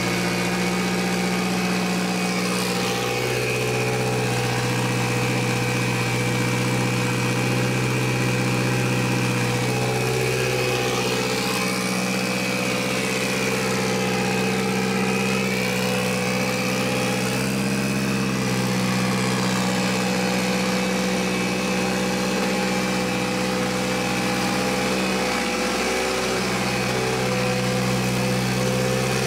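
Mitsubishi Lancer Evolution VIII's freshly rebuilt 4G63T turbocharged inline-four running at a high idle, mostly steady with slight wavers in pitch. The high idle comes from an air leak: a vacuum hose left unhooked.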